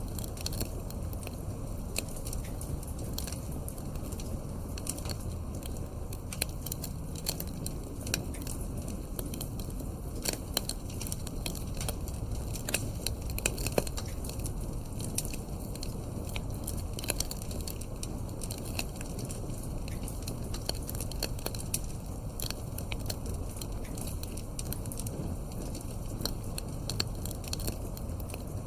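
Wood fire crackling in a fireplace: irregular snaps and pops, a few louder ones about ten and fourteen seconds in, over a steady low rush of the burning fire.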